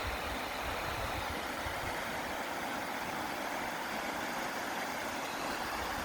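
Snowmelt creek water rushing steadily over a beaver dam and through the channel, a constant even rush.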